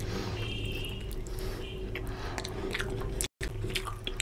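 Close-miked eating sounds: wet chewing and biting of mutton curry and rice eaten by hand, with many short mouth clicks over a steady low hum. The sound cuts out briefly just after three seconds.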